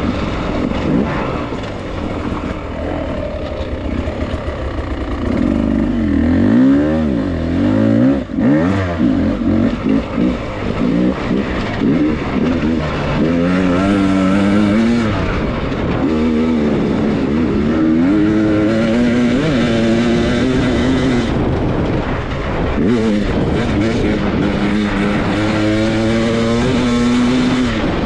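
Beta dirt bike engine revving up and down as it is ridden, its pitch rising and falling repeatedly as the throttle is worked on and off.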